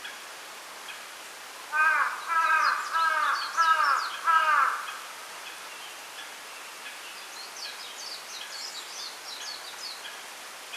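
A crow cawing five times in quick succession, harsh calls falling in pitch. Later, a small bird twitters faintly.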